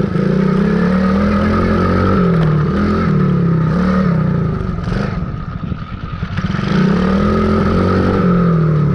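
Small dirt bike engine running and revving, its pitch rising and falling repeatedly, with a steady high whine over it. It eases off about two-thirds of the way through, then picks up again.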